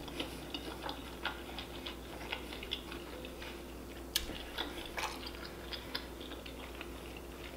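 Close-miked mouth sounds of someone chewing a bite of boiled sausage: soft wet clicks and lip smacks scattered irregularly, over a faint steady hum.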